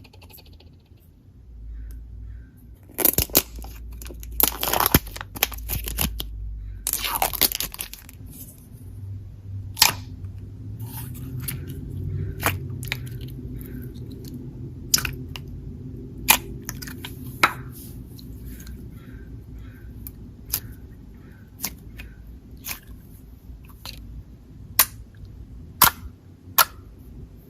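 Blue slime being squished and stretched by hand, with a scatter of sharp clicks and pops and some longer crackling stretches in the first third.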